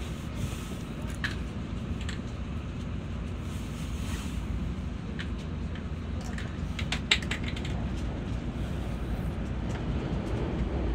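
Cabin noise of a Tokaido Shinkansen 700 series train running along the line: a steady low rumble. A few sharp clicks come over it, with a quick cluster of them about seven seconds in.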